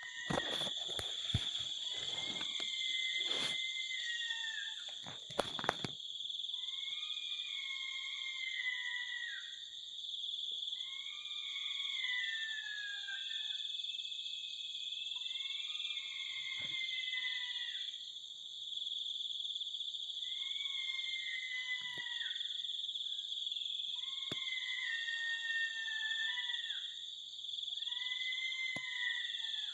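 An unidentified animal call, falling in pitch and about two seconds long, repeating about every four seconds over a steady high chorus of insects. It is the strange sound heard while waiting in a hunting stand. A few sharp knocks come in the first six seconds.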